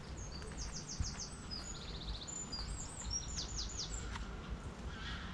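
A songbird singing: several runs of quick, high, falling notes and a short rapid trill, over a steady low background rumble.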